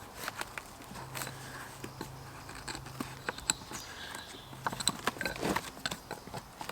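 Irregular light clicks and taps with some rustling, growing busier about five seconds in.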